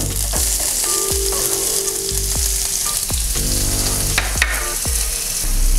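Hot oil sizzling in a nonstick pan as chopped onions go into a tempering of mustard seeds, cumin and peanuts, with a few light knocks scattered through.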